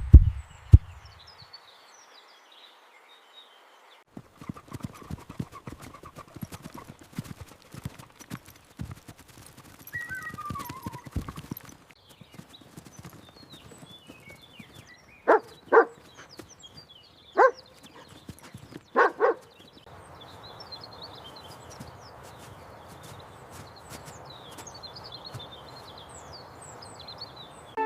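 Horse hooves clopping for several seconds, with small birds chirping. Past the middle come four short loud animal calls, then a steady faint outdoor hiss with the birdsong going on.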